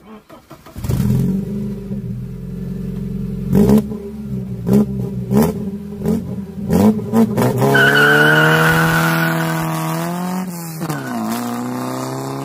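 Ford Sierra saloon's engine starting about a second in and idling. The throttle is blipped about six times, then the car pulls away, its engine note rising through one gear change about ten seconds in.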